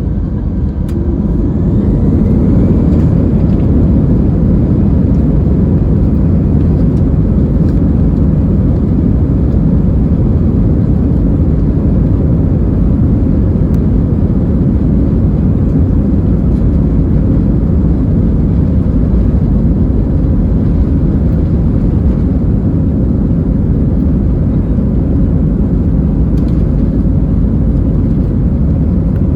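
Airbus A320-216's CFM56 jet engines, heard from inside the passenger cabin, spooling up to takeoff thrust: a thin rising whine and building noise over the first two to three seconds, then a steady loud roar.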